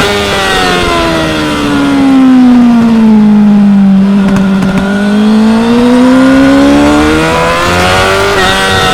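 2016 Yamaha R6's inline-four engine on track: the engine note falls for about four seconds as the bike slows for a corner, then climbs steadily as it accelerates out, with a quick gear change shortly before the end.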